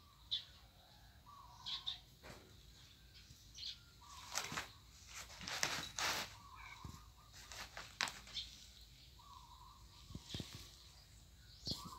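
Birds calling faintly and intermittently, with several short rustles and knocks about halfway through.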